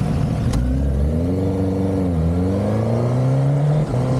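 Motorcycle engine accelerating hard, its pitch climbing, dropping at a gear change about two seconds in, then climbing again to another shift near the end.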